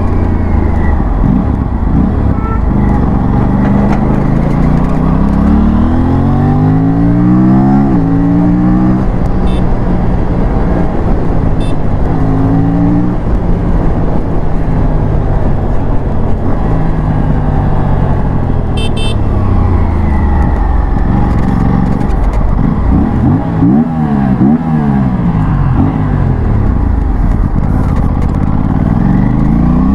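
Aprilia parallel-twin sportbike engine accelerating hard through the gears. The pitch climbs and then drops at each quick upshift, mostly in the first third and again near the end. In between it falls back and rises again as the throttle is rolled off and reopened.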